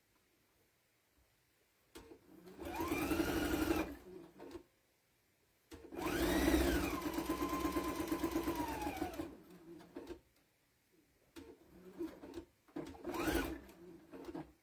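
Electric sewing machine stitching in three runs separated by pauses: a short run, a longer one, and a brief burst near the end, its motor whine rising as it speeds up and falling as it slows. It is sewing binding onto a quilted potholder with a quarter-inch seam.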